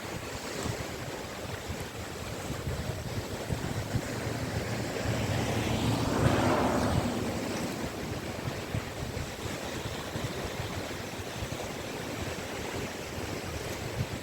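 Sea waves washing onto a beach in a steady surf. One wave swells louder and breaks about six seconds in, then recedes.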